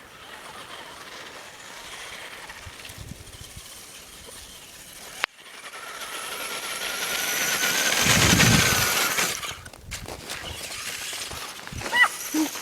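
A radio-controlled truck's motor running, its whine climbing in pitch and loudness as the truck speeds up. It peaks about eight to nine seconds in, then cuts off suddenly.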